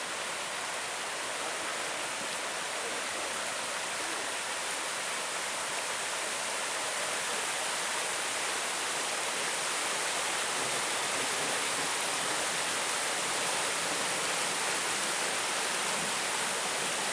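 Swollen creek in flash flood, floodwater rushing down the creek bed in a steady rush of water.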